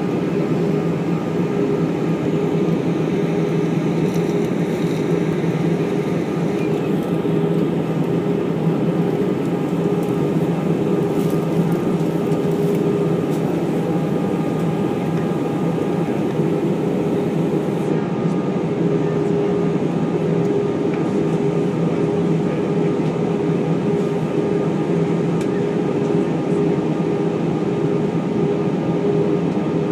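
Steady cabin noise inside an Airbus A319 airliner on approach: the hum of the jet engines and the rush of airflow, with a few steady low tones held throughout.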